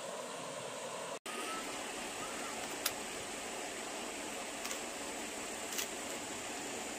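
Steady rushing of flowing water, with a few sharp clicks near the middle and end. The sound cuts out completely for an instant about a second in.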